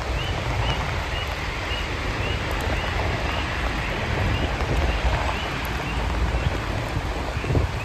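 Steady rain with a low wind rumble on the microphone, and a faint high squeak repeating about twice a second.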